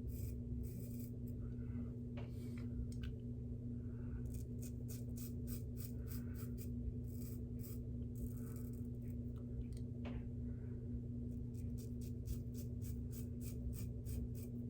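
Shavette razor with a half DE blade scraping through lathered stubble: a run of short, dry, scratchy strokes, denser in the second half, over a steady low hum.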